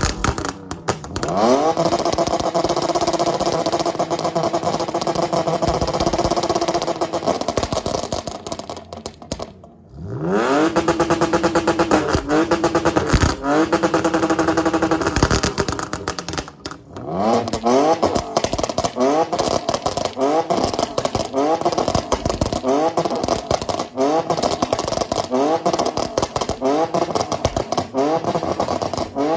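BMW straight-six engine with headers and a muffler delete revved hard. The pitch sweeps up and is held steady at high revs for several seconds, drops back, and does the same again. For the last dozen seconds it is blipped in quick repeated revs, about one a second.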